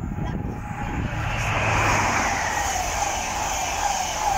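LNER express train passing at speed: a rushing noise that builds about a second and a half in, with a high whine slowly falling in pitch as it goes by.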